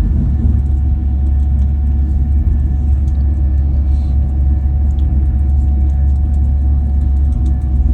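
Passenger train running at speed, heard from inside the carriage: a loud, steady low rumble with a faint constant whine above it.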